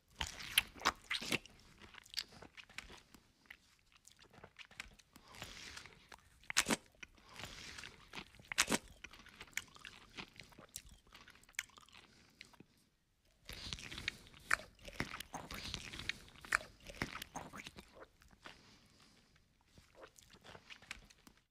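A person chewing and crunching a mouthful of food. Clusters of sharp crunches come at the start, twice around the middle, and again in a longer run past halfway, with softer chewing between.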